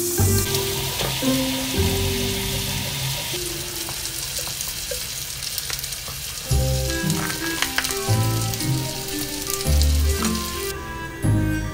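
Pork belly and potatoes sizzling steadily as they fry in a small skillet. The sizzle cuts off near the end.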